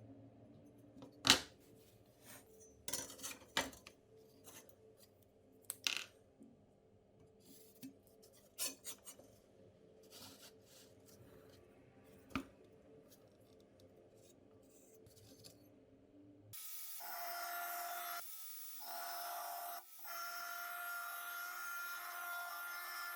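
Scattered clinks, knocks and short rubbing scrapes of metal parts being handled and worked by hand, with the loudest knock about a second in. Background music comes in about two-thirds of the way through.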